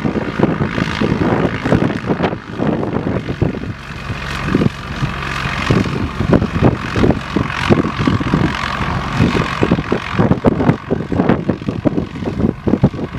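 Maule M-4 single-engine propeller aircraft running, its engine and propeller sounding steadily, with gusty wind buffeting the microphone.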